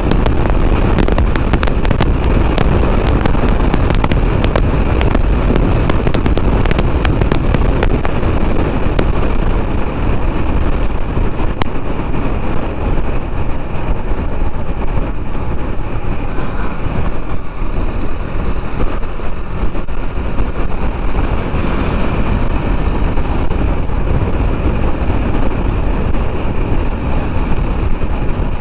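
Riding noise from a KTM Duke 390 motorcycle on the move: wind rushing over the microphone with engine and road noise, loud and steady. A run of sharp crackles and knocks comes through in the first several seconds.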